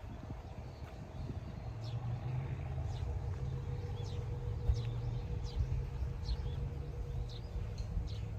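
Mitsubishi Fuso Fighter truck's diesel engine idling with a steady low rumble, while birds chirp in short repeated calls.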